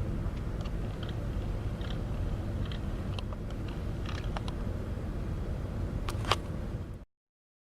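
Steady low outdoor rumble with scattered faint short high ticks and one sharper click about six seconds in; the sound then cuts off abruptly to dead silence.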